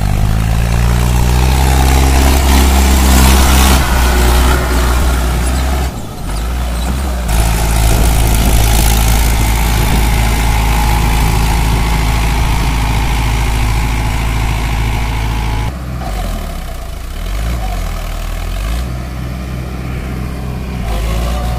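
Mahindra 555DI tractor's diesel engine running loud and steady. Its pitch and level shift abruptly about six seconds in and again near sixteen seconds.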